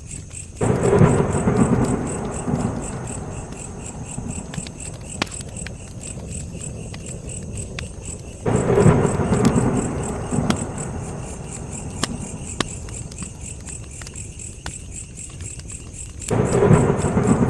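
Crackling fire with scattered sharp pops, over a steady high chirping of crickets. Three times, about eight seconds apart, a low swell of noise comes in suddenly and fades over a few seconds.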